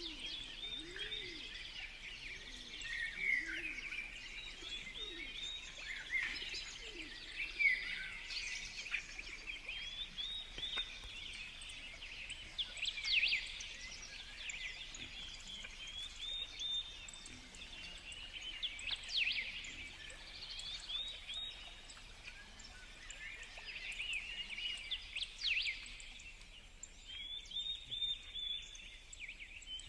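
Several songbirds at a feeder chirping and calling over one another in short, quick notes, with a pigeon's low cooing in the first few seconds.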